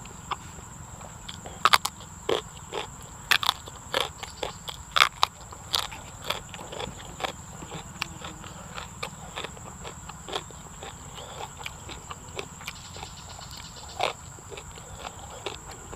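Close-up chewing and crunching of food, with a run of loud crisp crunches between about two and six seconds in, then softer, sparser chewing.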